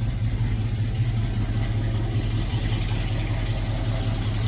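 Small-block 350 V8 crate engine idling steadily, just kind of purring along.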